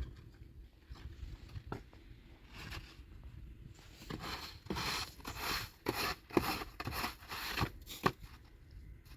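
A run of short rustling and scraping strokes, like something being cut, torn or handled, coming thickest in the second half.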